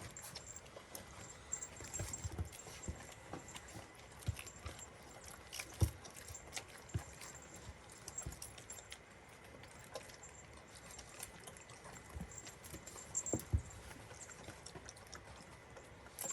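Small bells on Jindo puppies' collars jingling faintly and on and off as the puppies move and nurse, mixed with irregular soft knocks and taps.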